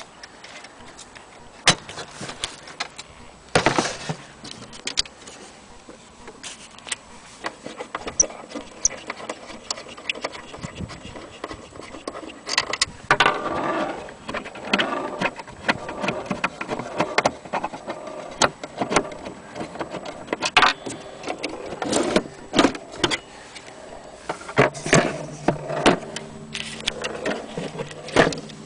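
Irregular clicks, knocks and light metallic rattling, with several louder sharp knocks, from handling an old German HAC strike wall clock.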